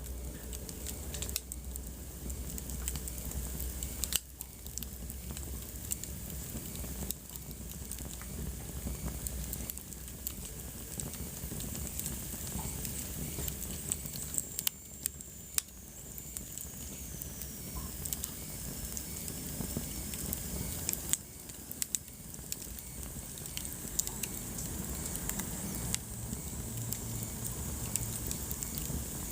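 Wood fire in a fireplace burning with a steady hiss and frequent irregular crackles and pops.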